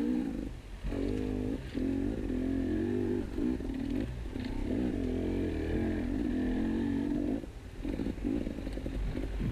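KTM 250 EXC enduro motorcycle engine under changing throttle, its note rising and falling constantly and dropping off briefly several times as the rider rolls off and on the gas over rocky trail.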